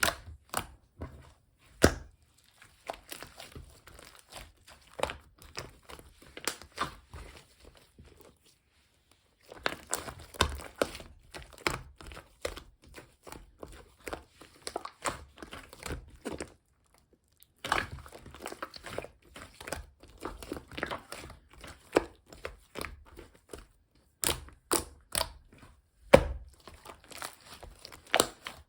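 Hands squishing, folding and stretching pink two-layer mixed slime: sticky crackling with sharp popping clicks as air pockets burst. The play pauses briefly about 8 seconds in and again near 17 seconds.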